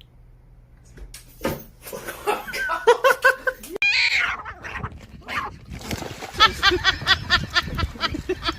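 A dog barking and yelping in short repeated calls, mixed with people's voices and laughter.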